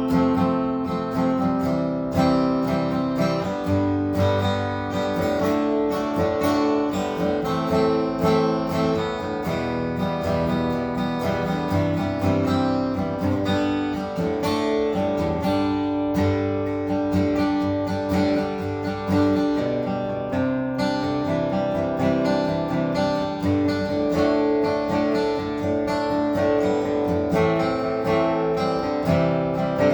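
Seagull SWS mahogany acoustic guitar being strummed, a steady run of chords with several strokes a second.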